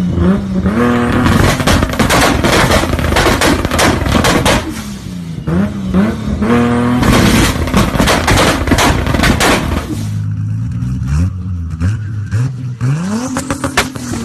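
Turbocharged Toyota Supra inline-six revved again and again, its pitch climbing and dropping, with rapid runs of crackling bangs from the exhaust in two long stretches. About ten seconds in it settles to a lower idle, then revs up once more near the end.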